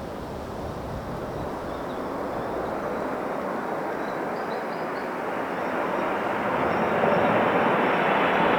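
Jet airliner on landing approach, its engine noise a steady rush that grows gradually louder as it comes closer.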